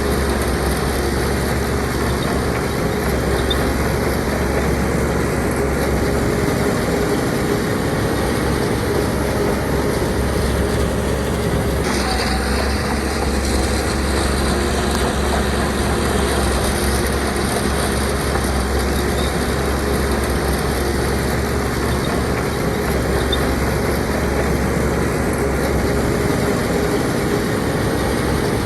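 Heavy diesel earthmoving machinery running steadily under load, with a slight shift in the sound about twelve seconds in.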